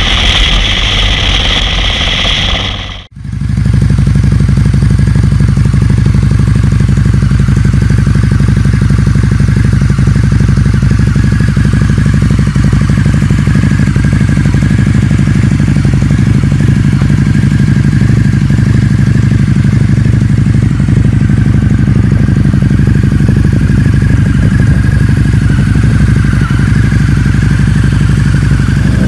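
Cruiser motorcycle engine running at a steady speed with a low, even note. About three seconds in the sound cuts sharply from a brighter, hissier engine sound to this steady note.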